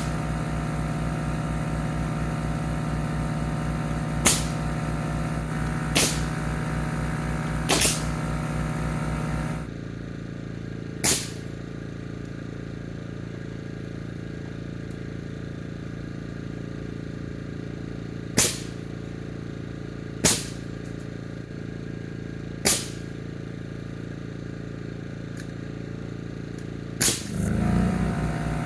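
Pneumatic framing nailer firing eight single sharp shots, a few seconds apart, while nailing 2x lumber together. An air compressor runs steadily beneath the first shots and shuts off about ten seconds in.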